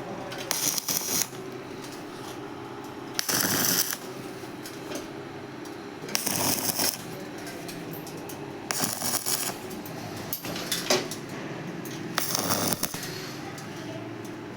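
Short bursts of hissing, about six of them, each lasting under a second and coming every two to three seconds, over a steady low machine hum.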